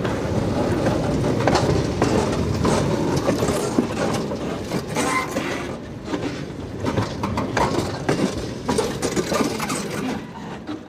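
Freight train cars rolling past on rough track, wheels rumbling and clanking irregularly over rail joints. The sound eases a little over the last few seconds, then cuts off.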